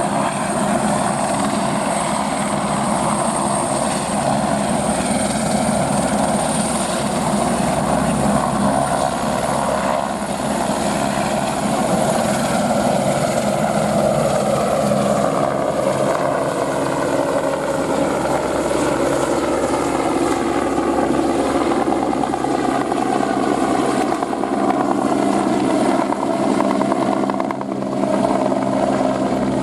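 Airbus AS350 helicopter's turbine and rotor running steadily, with a high thin turbine whine over the first third and the engine tones sagging slightly in pitch through the middle.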